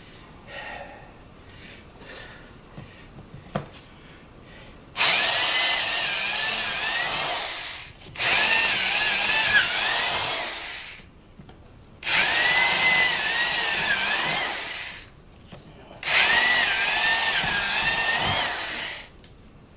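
An old Black & Decker electric drill boring holes through plywood, four runs of about three seconds each, the bit's whine wavering in pitch as it cuts. Small handling sounds come first.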